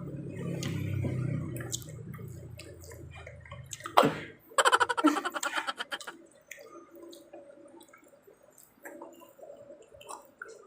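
Close-miked mukbang eating sounds of pizza being chewed: wet mouth clicks and smacks. A sharp click comes about four seconds in, followed by a rapid rattling burst lasting about a second and a half.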